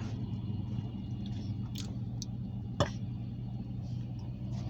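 Low, steady rumble of a diesel locomotive running light past the camera, with a few faint clicks and one sharper click about three seconds in.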